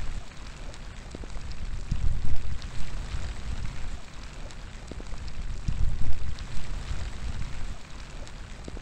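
Steady outdoor rain, a constant hiss with many individual drops ticking. Gusts of wind make a low, uneven rumble that swells about two seconds in and again around six seconds.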